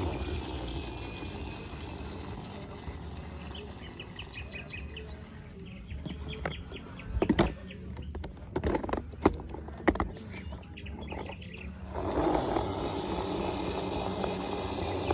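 Birds chirping in the background in short repeated bursts. In the middle comes a run of sharp clicks and knocks, and about three-quarters of the way through a steady rolling, scraping noise starts.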